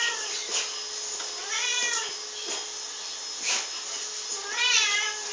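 A pet animal's drawn-out, meow-like crying calls, each rising then falling in pitch. Two full calls come about two seconds and five seconds in, after the tail of one at the start, with a few sharp clicks between them.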